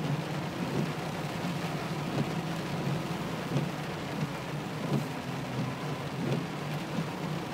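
Heavy downpour, a cloudburst, pattering steadily on a car from inside the cabin, over a steady low drone of the moving car.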